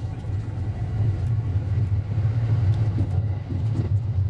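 JR West 223 series electric train running, a steady low rumble that grows louder about a second in.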